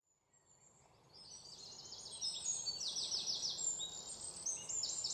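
Birdsong fading in from silence: birds singing in rapid series of high, quickly falling chirps over a faint outdoor hiss.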